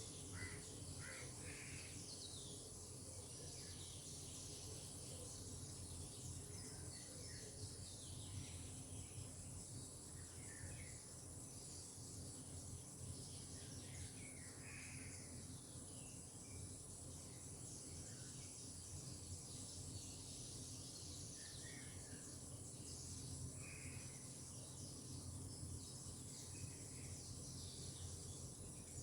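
Faint tropical outdoor ambience: a steady high-pitched insect drone over a low even hiss, with short bird calls scattered every few seconds.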